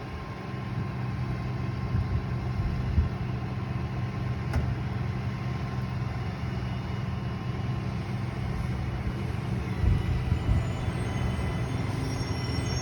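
Vehicle engine idling steadily, an even low rumble.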